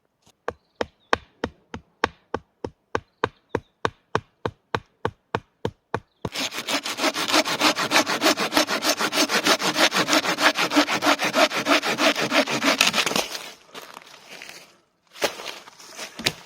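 Hand saw cutting through wood, likely a folding pruning saw: first short separate strokes, about three a second, for some six seconds, then fast continuous sawing for about seven seconds that stops suddenly. A couple of knocks follow near the end.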